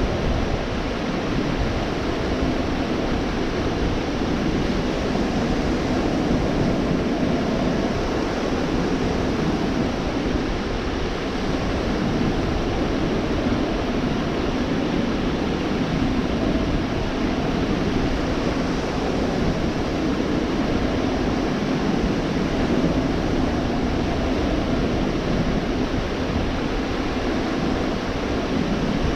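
Gulf of Mexico surf washing onto a sandy beach: a continuous, steady rush of breaking waves with only mild swells.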